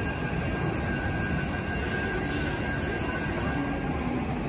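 Stationary JR E657 series electric train at a platform, its onboard equipment giving a steady hum. Several high-pitched whines stop a little past three seconds in.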